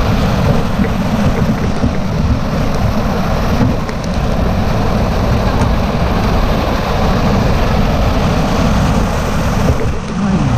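Steady, loud rush of river water with wind buffeting the microphone.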